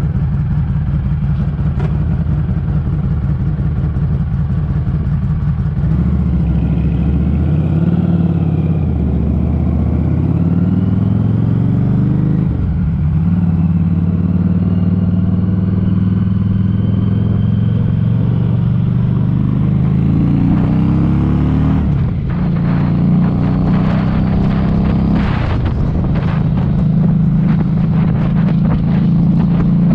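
Harley-Davidson Street 500's V-twin with a TAB Performance aftermarket exhaust running on the road, its note stepping up and down in pitch through throttle and gear changes. Wind buffets the helmet-mounted mic, heavier in the last third.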